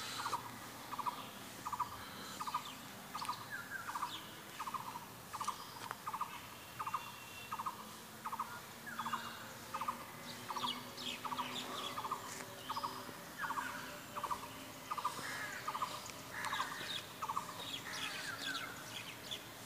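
A bird repeating a short, buzzy call about twice a second without a break, with other birds chirping now and then in the background.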